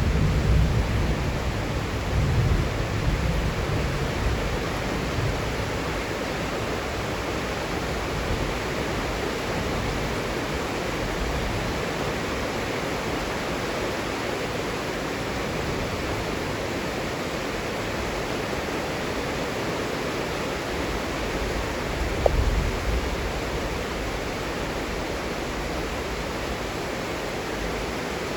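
Heavy rain falling steadily, an even hiss, with low rumbles swelling over the first few seconds and again briefly about 22 seconds in.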